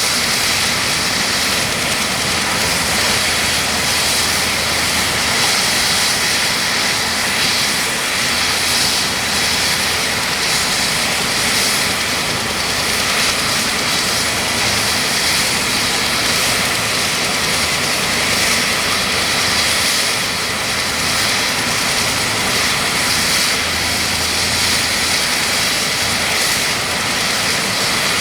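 UH-60M Black Hawk helicopter's turbines running steadily on the ground during startup, a constant high whine over a broad rush of noise.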